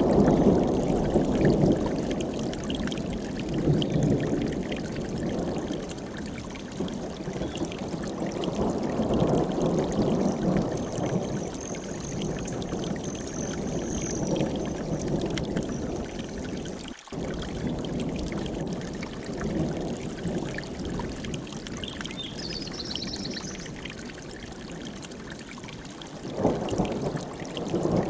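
Mountain stream rushing and splashing over rocks, its level swelling and easing every few seconds.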